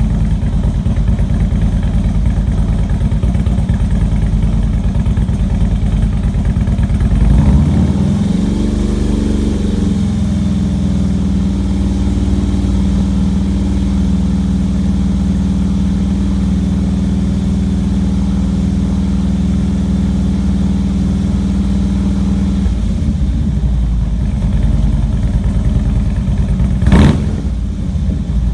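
Harley-Davidson V-twin through Bassani 4-inch megaphone slip-on mufflers, idling, then brought up to about 2,500 rpm, typical cruising speed. It holds steady there for about fifteen seconds, then drops back to idle. A single short, sharp burst comes near the end.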